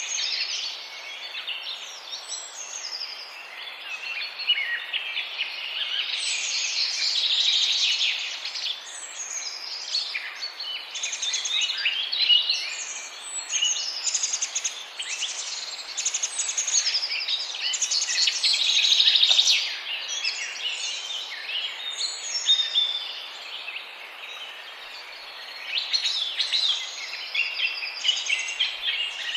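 Dense chorus of many small songbirds chirping and singing at once, calls overlapping and rising and falling in loudness.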